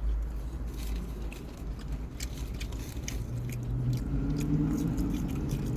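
Close-up eating noises: a run of small, sharp mouth and handling clicks over a steady low rumble, with a low drawn-out hum coming in about three seconds in.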